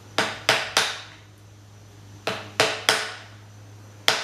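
Hammer striking metal seven times, in two quick sets of three and one more near the end, each strike ringing briefly: marking witness marks into the pump motor's housing and end bell before disassembly.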